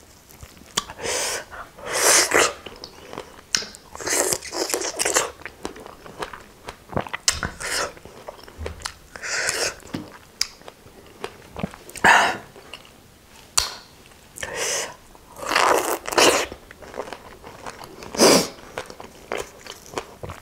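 Biting and chewing fresh strawberries, in irregular bursts every second or two, with a few light clicks between them.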